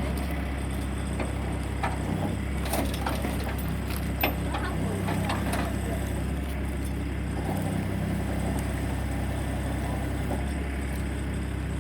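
Steady low motor drone that dips briefly about every three seconds, with a few light clicks and knocks in the first half.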